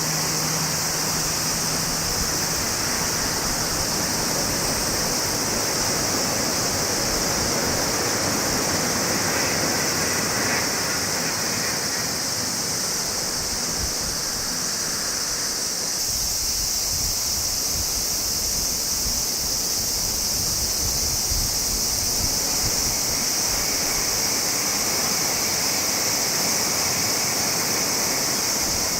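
Steady rushing running noise of a Tokaido Shinkansen train at speed, with a constant high hiss over it and no let-up.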